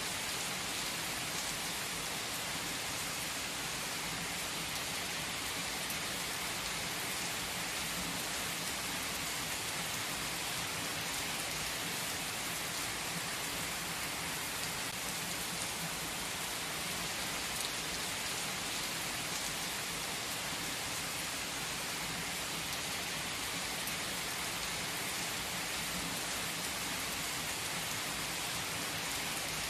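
Heavy rain pouring onto an asphalt car park: a steady, dense hiss of falling water with faint scattered ticks of single drops.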